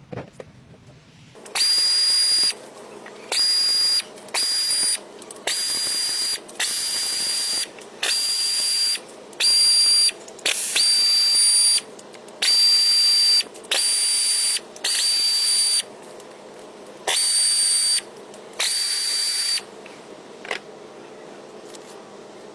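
About thirteen short hissing blasts in a row, each carrying a steady high whistle, as a pressurised jet is triggered on and off.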